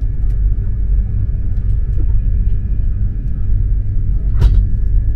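Eurostar high-speed electric train heard from inside the carriage while running: a steady low rumble with a faint steady whine above it. A single sharp click or knock comes about four and a half seconds in.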